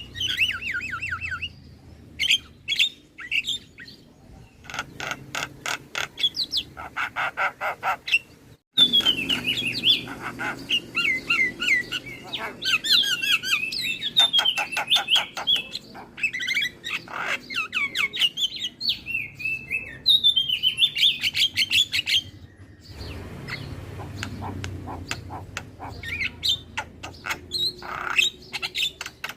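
Javan myna (jalak kebo) singing: a fast, varied stream of rattling trills, chatter and whistled notes, with a brief break about nine seconds in.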